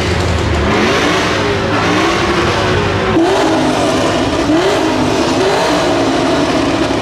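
Car engine being revved repeatedly, its pitch rising and falling back in a series of quick blips.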